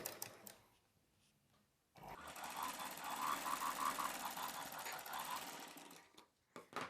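Sewing machine running, stitching with a fast, even rhythm for about four seconds. It starts about two seconds in and stops shortly before the end, with a few small clicks around it.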